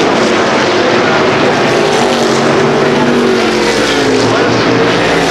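Several NASCAR Whelen Modified race cars' V8 engines running hard around a short oval, their overlapping engine notes rising and falling as the cars pass.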